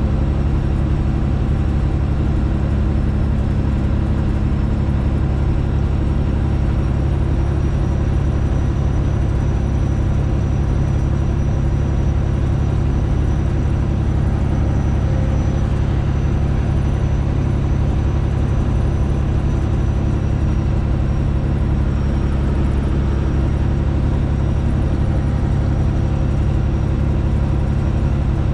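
Straight-piped Detroit Diesel engine of a Freightliner Classic XL semi truck running at a steady, even pitch under way, with a faint high whine over it.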